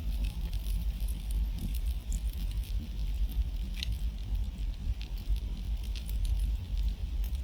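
Wood campfire crackling, with scattered small pops and one clearer snap about four seconds in, over a steady low rumble.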